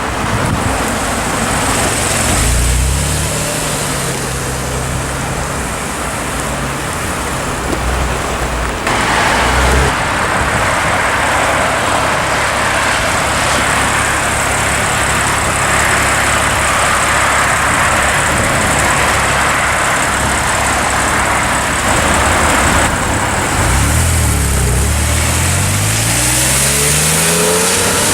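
Car engine revving and accelerating over loud road and wind noise, with several rising pitch sweeps in the last few seconds.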